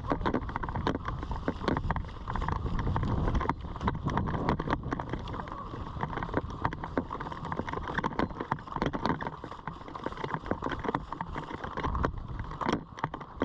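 Footsteps and the rustle and knock of carried gear, many irregular clicks over a heavy rumble of wind buffeting the body-worn microphone.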